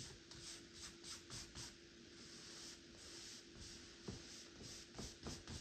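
Faint, quick brush strokes on canvas, a series of short scratchy swipes several times a second, with a few light taps near the end.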